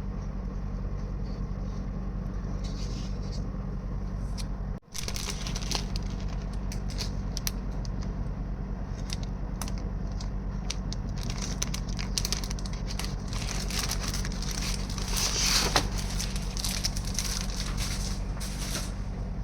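Sheets of paper being handled, crinkling and rustling with many small crackles, over a steady low hum. There is a brief dropout about five seconds in.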